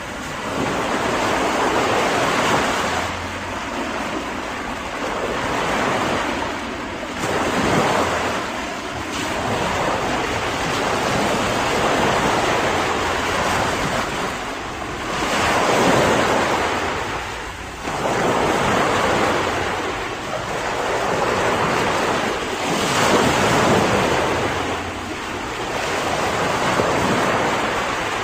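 Ocean surf: waves breaking and washing in over a steady rush, swelling and easing every few seconds.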